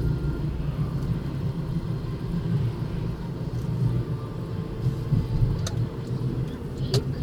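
Steady low rumble of a running vehicle, with two short sharp clicks near the end.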